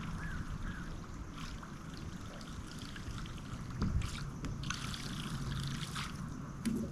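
Water lapping and trickling against a fishing boat, over a steady low hum, with a few light clicks.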